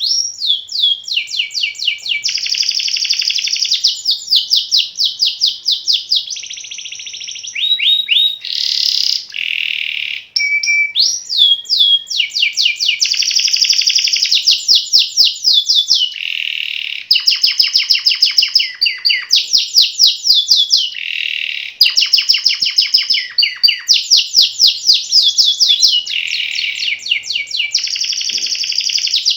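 Domestic canary singing continuously in long rolling tours: each phrase a fast, even repeat of one note, the phrases switching between higher and lower pitches every second or two.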